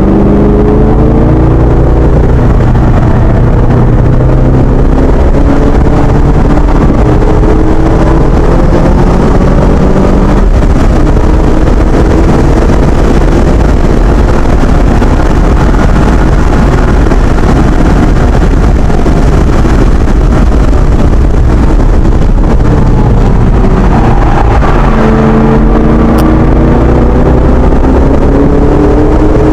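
2012 Ford Shelby GT500's supercharged 5.4-litre V8 heard from inside the cabin under hard acceleration. Its pitch climbs and drops sharply at an upshift about ten seconds in. A long stretch of loud wind and road roar then covers the engine, and near the end the engine climbs in pitch again.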